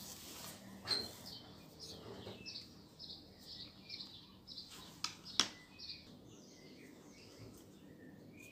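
A bird chirping over and over, short high chirps about twice a second, faint. A couple of sharp taps cut in, the loudest about five seconds in.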